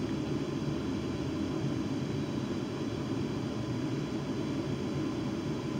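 Class 350 Siemens Desiro electric multiple unit moving off, heard from inside the carriage: a steady low rumble with a faint steady hum over it.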